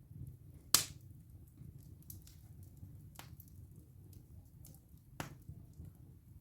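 Wood fire burning in a fireplace, a low steady rumble under scattered crackles from the burning wood. There is a loud sharp pop just under a second in, and two smaller pops at about three and five seconds.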